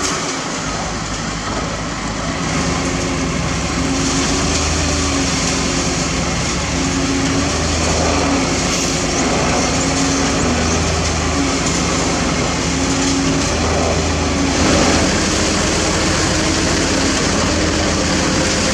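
Heavy diesel construction machinery running steadily and loud, with a low pulse that swells about every three seconds.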